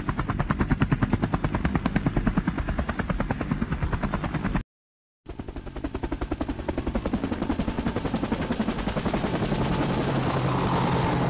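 Helicopter rotor beating in fast, even pulses. The sound cuts out abruptly for about half a second some four and a half seconds in, then resumes, growing steadier toward the end.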